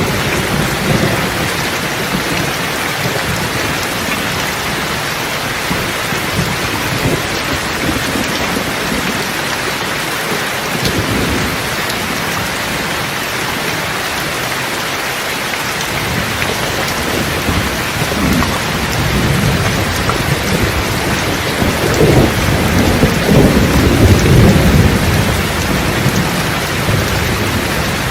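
Steady heavy rain hissing, with thunder rumbling low in the background, swelling louder in the second half.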